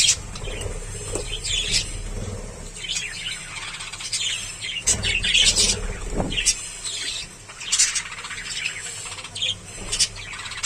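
Budgerigar chick chirping over and over in short, high, irregular calls.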